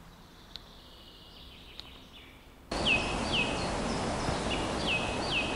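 Quiet woodland ambience with a faint bird note. Then, from an abrupt cut, a steady rushing noise with a small bird repeating short high chirps that slide downward, about two a second.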